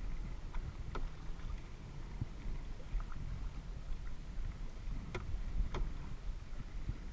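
Kayak paddle strokes: water dripping and splashing off the paddle in a few short, sharp plops, the loudest pair about five seconds in, over a low steady rumble.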